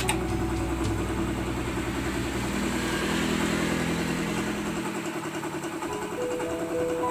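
Small airbrush compressor running with a steady, rapidly pulsing hum.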